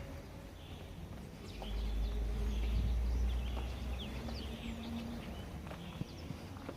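Small birds chirping, with many short, quick calls scattered throughout. A low rumble swells from about one and a half seconds in to about four seconds and is the loudest part.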